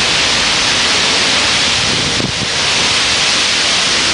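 Squall-line windstorm: a steady, loud rush of wind and rain, with a slight lull about two seconds in.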